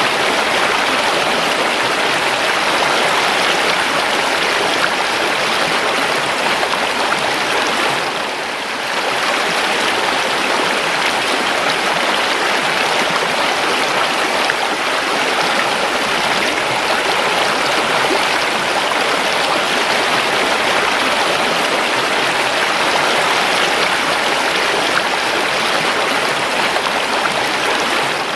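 Calm river water flowing and babbling steadily, a dense even rush with a brief dip in level about eight seconds in.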